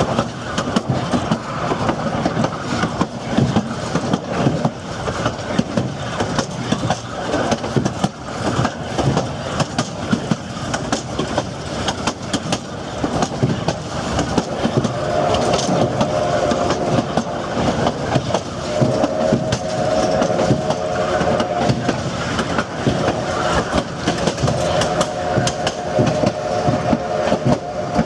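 Durango & Silverton narrow-gauge passenger train rolling, its wheels clicking rhythmically over the rail joints. From about fifteen seconds in, a steady tone comes and goes three times over the running noise.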